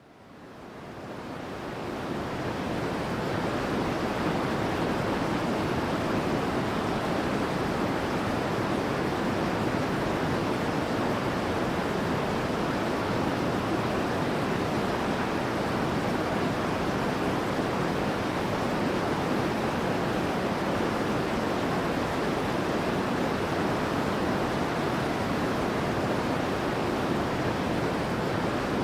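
Steady, even rushing noise like white or brown noise, fading in over the first couple of seconds and then holding level, made of dozens of human voice recordings layered together until no words can be picked out.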